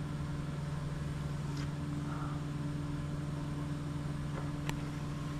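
Steady low machine hum in the background, with one short sharp click near the end.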